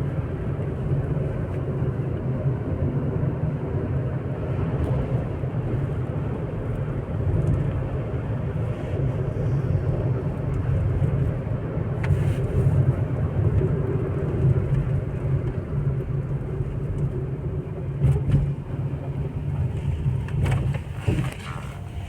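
Moving car's steady engine and road noise, a continuous low rumble, with a few brief knocks along the way.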